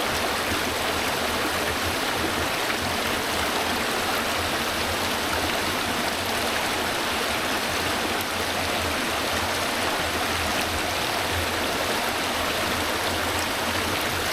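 A stream running, with a steady, even rush of water and no change in level.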